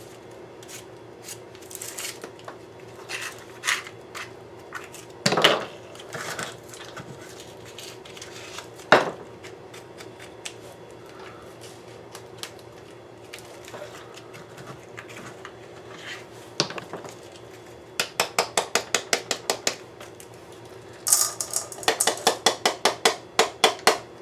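Small hard pieces clinking and clattering against a dish, with a few scattered knocks and then two quick runs of rapid clicks near the end, as the contents of a dissected firework shell are handled for weighing.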